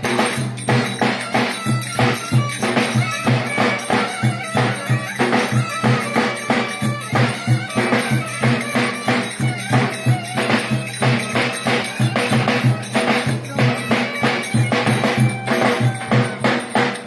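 Wedding dance music played by a band: a quick, steady drum beat under a held low note and a melody line.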